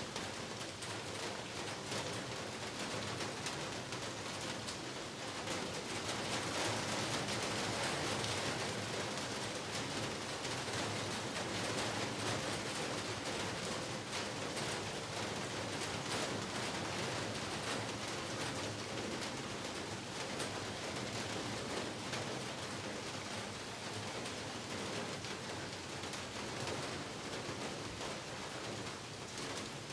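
Heavy rain falling steadily, a dense hiss of drops pattering on surfaces, swelling a little heavier from about six seconds in.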